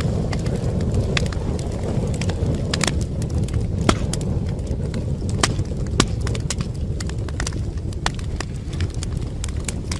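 Wood fire burning in a fireplace: a steady low rumble of flame with sharp crackles and pops at irregular moments, a handful of them louder snaps.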